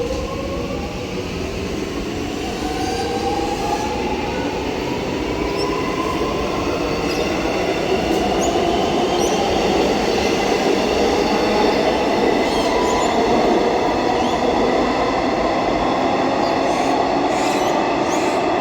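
Electric suburban train's traction motors whining, the tones climbing slowly in pitch as the train gathers speed, over a steady running rumble that grows louder. A few short clicks from the wheels come near the end.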